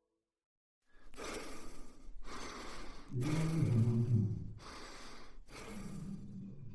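A row of breath-like rushes of noise, about one a second, starting after a second of silence. A low pitched sound joins underneath midway, then settles into a steady low tone.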